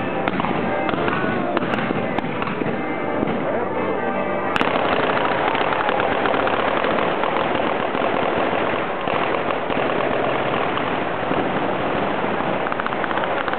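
Fireworks packed on Florence's Easter cart going off in dense, continuous crackling and popping. A sharp bang comes about four and a half seconds in, after which the crackling grows thicker and a little louder.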